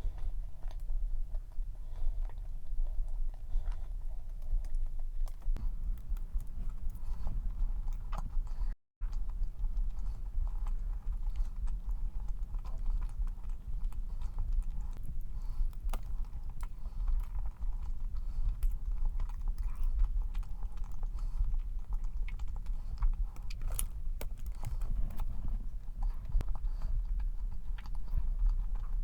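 Close-up chewing of a dense, fudgy cream-cheese cup cookie, with soft mouth sounds and scattered small clicks. The sound breaks off for an instant a little before nine seconds in.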